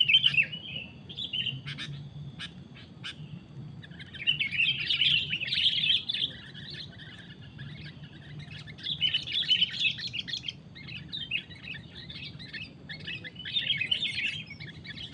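Sooty-headed bulbuls chattering in repeated bursts of quick, bubbly calls, with a few short sharp single notes in the first three seconds.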